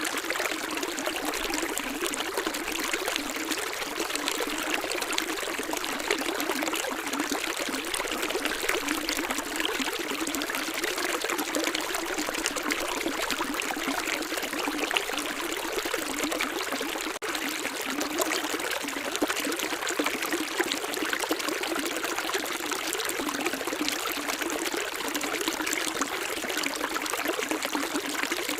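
Running water from a small stream, flowing and trickling steadily, with a momentary break a little past halfway.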